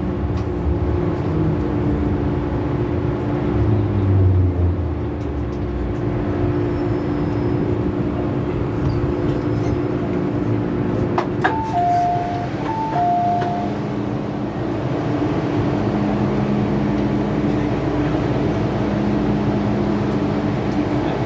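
MTR Kwun Tong Line M-Train running along the line: steady rumble of the train under way with the hum of its motors, tones that shift in pitch as it runs. About halfway through, a two-note descending chime sounds twice in quick succession.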